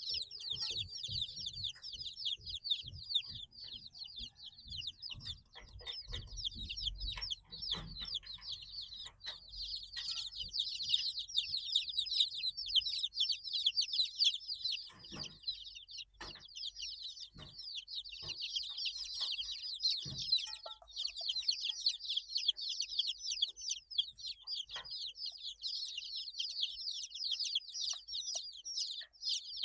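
A brood of 8-day-old chicks peeping continuously: many overlapping short, high chirps from several birds at once, with a few soft knocks in the middle.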